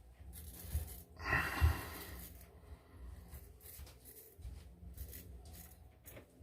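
Faint scraping strokes of a wet-shaving razor across lathered stubble, short and irregular, with a louder scratchy stroke a little over a second in.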